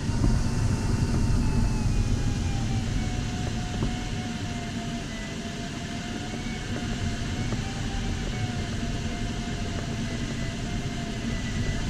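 Steady rush of airflow around an LS4 sailplane's cockpit, with the variometer's continuous tone wavering slowly up and down in pitch as the glider climbs in a thermal.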